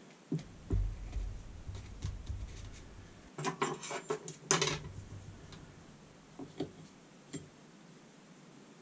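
Light clicks, knocks and a short rattle of small hard parts being handled while an air-suspension compressor's air dryer is reassembled on the bench. The rattling is densest about three and a half to five seconds in, with a few single ticks after it.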